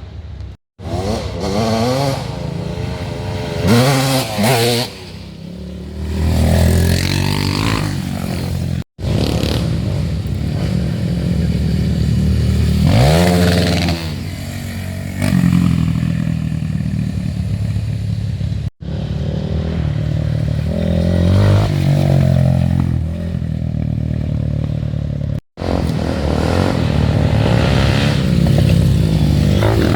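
Off-road dirt bike engines revving hard and easing off as they push through mud, the engine pitch rising and falling repeatedly, with some clatter and scraping. The sound cuts out for an instant four times.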